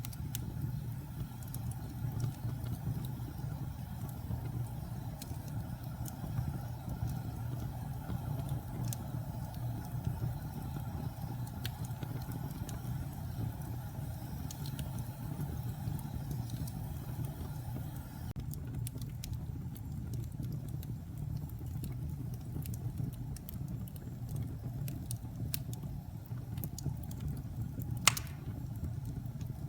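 Wood fire burning in a fireplace: a steady low rumble of flames with scattered sharp crackles and pops, and one loud pop near the end.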